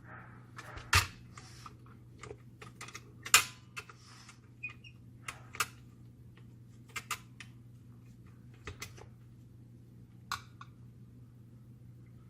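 Irregular clicks and knocks of small plastic and metal parts being handled on a copier fuser unit, the two loudest about one second and three and a half seconds in, over a low steady hum.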